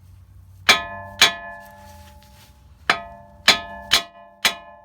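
Hammer blows on metal at the outer tie rod end of a Toyota Sienna's steering, striking to shock the tie rod end's tapered stud loose from the knuckle. Six sharp, ringing clanks: two close together, a pause, then four about two a second.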